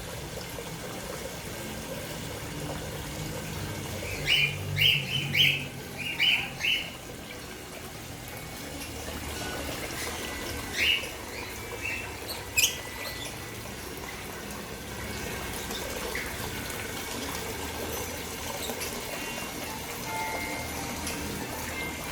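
Birds in an aviary giving short, sharp calls over steadily running water, with a quick run of calls about four to seven seconds in and a few single calls later.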